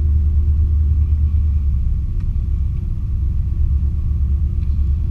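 A 1986 Chevy K20 pickup with its 350 V8 running, heard from inside the cab while driving. It makes a steady, loud low rumble of engine and drivetrain.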